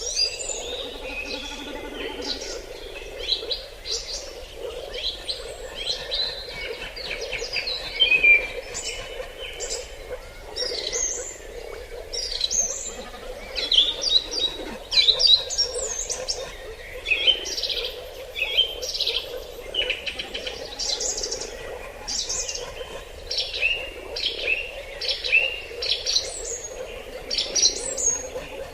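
Several wild birds chirping and calling in forest, many short, quick calls overlapping one another, over a steady low hum.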